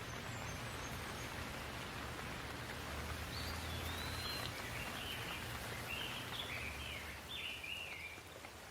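Steady rain falling, an even hiss. A bird sings a run of short warbling phrases over it, starting about three seconds in and stopping shortly before the end.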